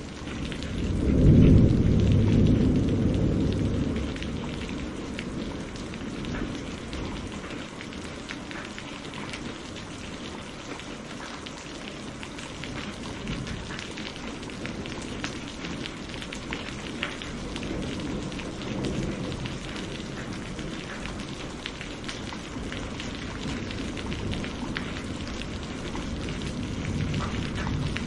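Steady rain with fine drop ticks, and a loud roll of thunder about a second in that fades over the next few seconds; fainter rumbles of thunder come again later, the last near the end.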